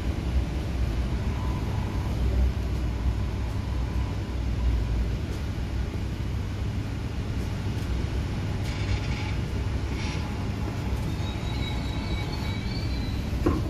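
MTR K-Train electric multiple unit slowing into a station and coming to a stop, heard from inside the car: a steady low running rumble, two short hisses about two-thirds through, and a faint high whine near the end as the train halts.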